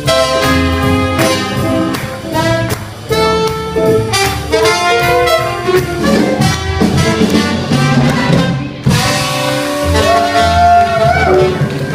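Live swing jazz band playing an up-tempo dance number, saxophone and brass carrying the melody over a steady beat.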